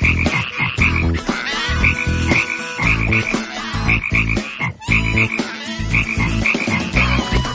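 Cartoon frog croaking sound effects, repeated in quick clusters of short croaks every second or so.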